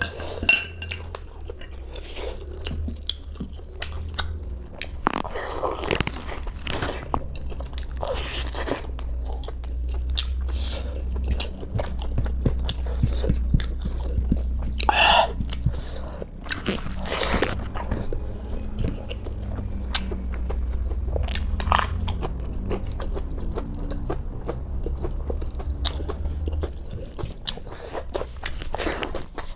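Close-miked eating: biting into mutton on the bone and chewing mouthfuls of rice and meat, with many short wet mouth clicks and smacks. A low steady hum runs underneath and drops near the end.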